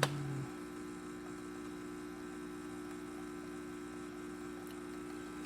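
ECM Giotto espresso machine's pump giving a steady hum while the espresso shot pulls, with a short knock right at the start.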